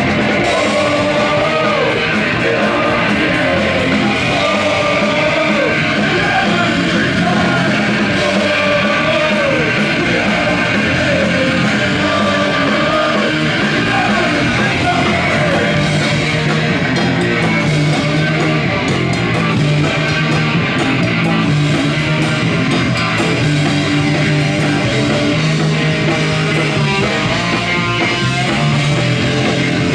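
Punk rock band playing loud, guitar-driven music, with a singer's voice through roughly the first half.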